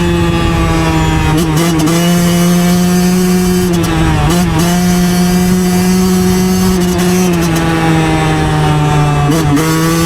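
Yamaha YZ125 two-stroke single-cylinder dirt bike engine running hard at a high, steady pitch under way. The note dips briefly about four times, roughly every two to three seconds, and picks straight back up as the throttle is eased and reopened.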